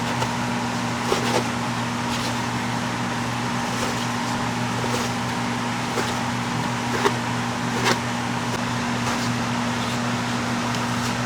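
Steady hum of a running electric motor, with a few short light knocks and clicks scattered through it.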